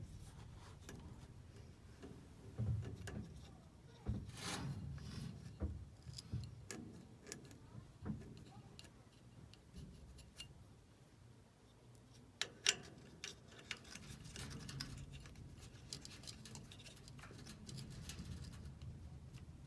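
Scattered light clicks and knocks of a replacement washing-machine part being handled and pressed into place, which is a tight fit and not going in easily, with a couple of sharper knocks about twelve and a half seconds in.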